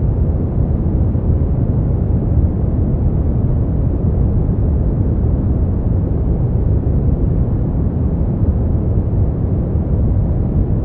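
Steady sleep-aid white noise, a continuous deep hiss weighted toward the bass with almost no treble, unchanging throughout.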